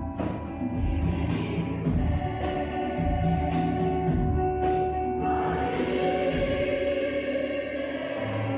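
Choir singing a pop-style number over an accompaniment with a steady beat; the voices fill out about five seconds in.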